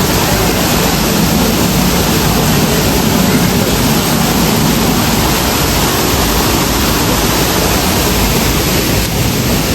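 Steady, loud rush of falling water from a waterfall, an even hiss with no breaks.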